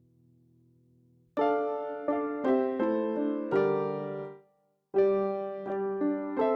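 Background piano music: a faint held chord, then a melody of ringing piano notes starting about a second and a half in, a brief pause, and the notes starting again.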